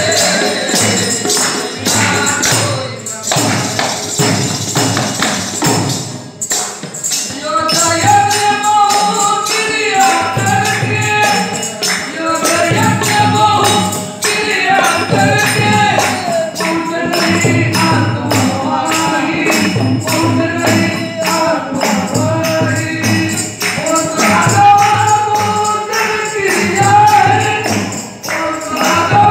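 Ektari bhajan music with a steady beat of jingling percussion. A melody line comes in about seven seconds in and carries on over the beat.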